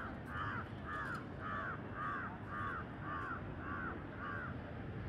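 A bird calling the same short arched note over and over, about twice a second, stopping shortly before the end, over a steady low background rumble.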